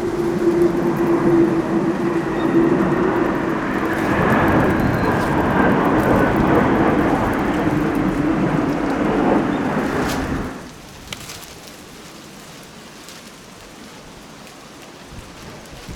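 Jet aircraft flying over, a loud rumble with a steady hum running through it, which cuts off suddenly about ten seconds in, leaving a quieter hiss.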